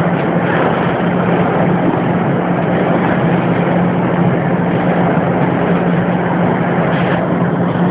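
Diesel locomotive running steadily under power, a loud, even noise with a constant low hum.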